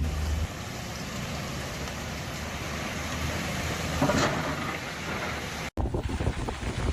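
Steady hiss of road traffic on a wet, slushy street. The sound breaks off abruptly near the end and is replaced by a different stretch of outdoor noise.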